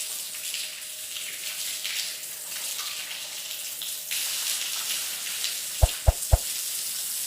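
Steady hiss of water flowing from a small DC water pump, with three sharp knocks in quick succession about six seconds in.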